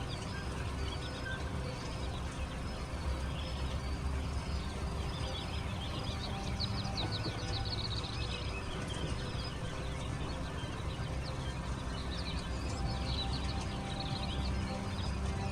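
Young chicks or quail chicks peeping in quick high-pitched runs that come and go in irregular clusters, over a steady low hum.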